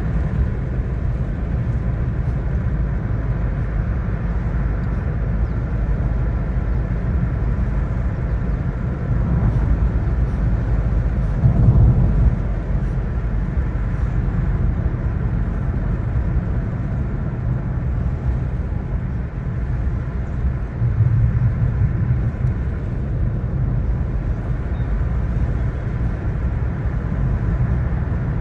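Steady rumble of a moving car, with road, engine and wind noise. It swells briefly twice, once near the middle and once about three-quarters of the way through.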